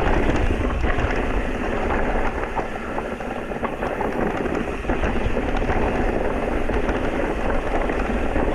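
Electric mountain bike riding over a rough trail: a steady low rumble from the tyres and the moving ride, with frequent small clicks and rattles from the bike.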